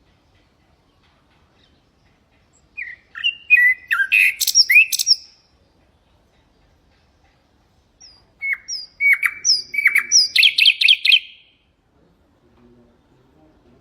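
Common nightingale singing two song phrases a few seconds apart, with silence between them. Each phrase is a run of varied whistles and sweeping notes, and the second ends in a fast trill of repeated notes.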